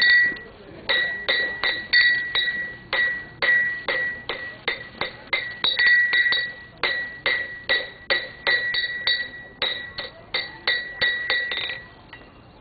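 Blacksmith's hammer striking hot iron on an anvil, a steady run of ringing blows about two to three a second with brief pauses between runs. The hammering stops near the end.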